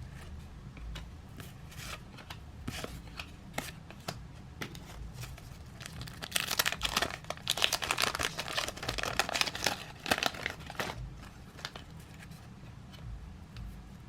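Trading-card pack wrapper crinkling and tearing as it is handled. There are scattered light taps and rustles at first, a dense stretch of crinkling in the middle lasting about five seconds, then a few quieter rustles.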